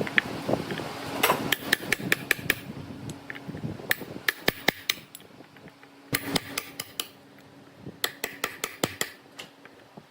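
Hammer tapping in quick bursts of several sharp strikes, a few bursts with short pauses between them.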